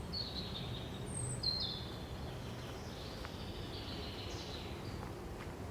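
Songbirds calling: a few short high chirps in the first two seconds, then a longer call through the middle, over a steady low background rumble.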